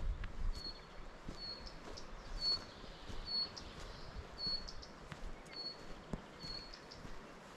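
A small bird calling, repeating one short high note about once a second.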